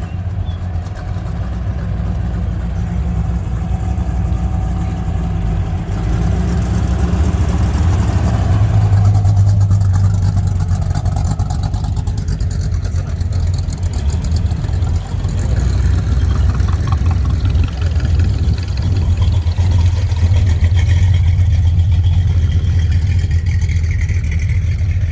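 Car engine running at low speed, a deep steady drone that grows louder over the first few seconds and stays loud.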